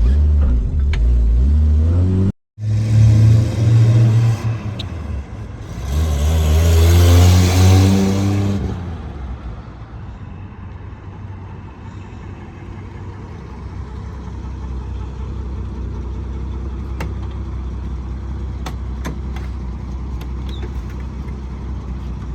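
A 1958 Rambler's 195-cubic-inch inline-six engine pulling hard under full-throttle acceleration, its pitch rising in two loud pulls with a short break between. From about nine seconds in it settles to a steady, quieter cruise with road noise.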